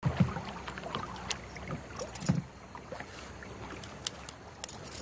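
Knocks and bumps in a kayak on the water. Two louder low knocks come about a quarter-second in and just after two seconds, with scattered small clicks between.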